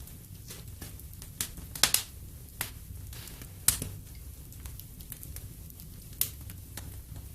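Wood fire in a fireplace crackling, with sharp pops at irregular intervals over a steady low rumble. The loudest pops come about two seconds in, near four seconds in and just past six seconds.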